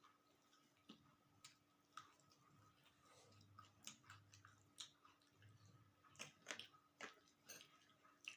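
Faint chewing by a person eating, with soft, irregular mouth clicks, over a faint steady hum.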